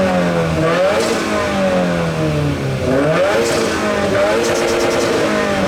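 A car's engine being revved repeatedly through its exhaust, the pitch falling and climbing again several times.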